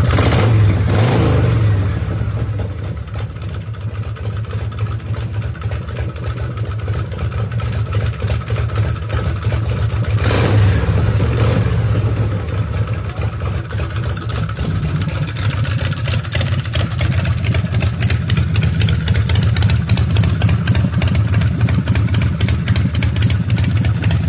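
2002 Harley-Davidson Softail's Twin Cam 88B V-twin engine running with a deep, pulsing rumble. It is revved briefly near the start and again about ten seconds in.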